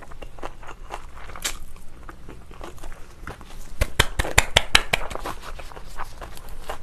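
Close-miked mouth sounds of someone eating spicy cabbage kimchi: wet chewing and crunching with small clicks, and a quick run of sharper crunching clicks about four seconds in.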